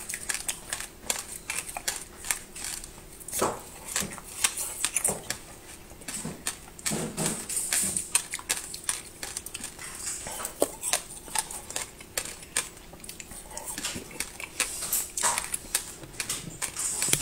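Close-miked crunching and chewing of a crunchy candy stick: a dense, irregular run of crisp clicks and crackles, with a few softer wet mouth sounds among them.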